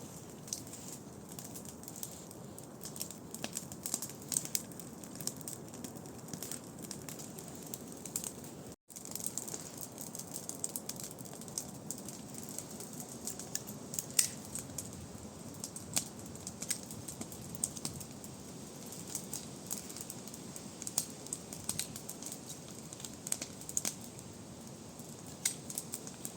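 Campfire crackling: irregular sharp pops and snaps over a steady low hiss. The sound drops out for an instant about nine seconds in.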